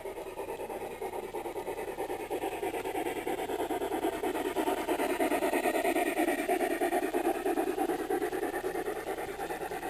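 Model train running past, a fast pulsing sound that grows louder toward the middle and fades again.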